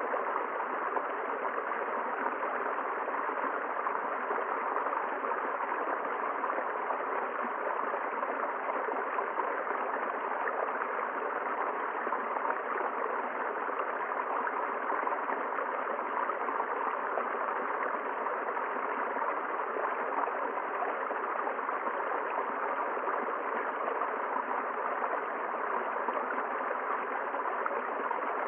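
A river flowing steadily over rocks, an even rushing and gurgling of water with no breaks.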